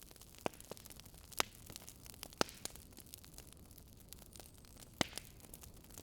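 Wood fire crackling: a steady hiss broken by sharp, irregular pops, the loudest about half a second, one and a half, two and a half and five seconds in.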